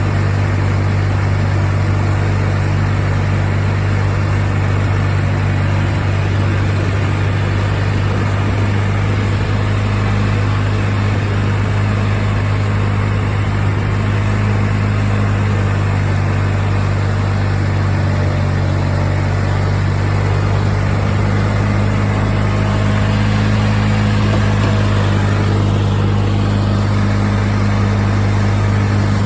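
Craftsman lawn tractor's 20 hp Kohler Magnum engine running steadily, a little louder in the last few seconds.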